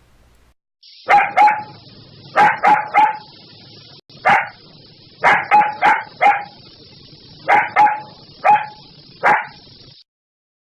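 A dog barking repeatedly, in short runs of two to four barks with brief pauses between, stopping suddenly near the end.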